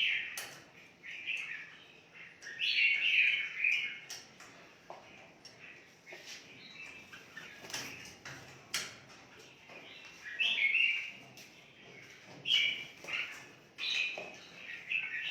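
Red-whiskered bulbuls chirping and warbling in short phrases every second or two, with a few sharp clicks between them.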